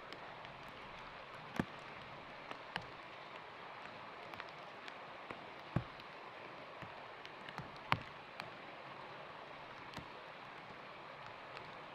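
Steady hiss of rain, with scattered single drops ticking sharply close by, three of them louder than the rest.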